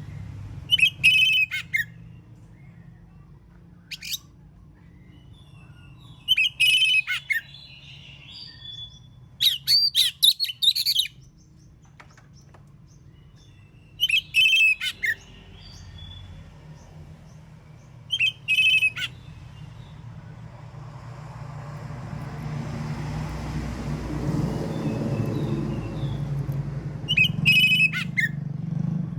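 Oriental magpie-robin (kacer) singing in short, loud, whistled phrases with pauses between them, about seven bursts. A low rumble swells up under the song in the last third.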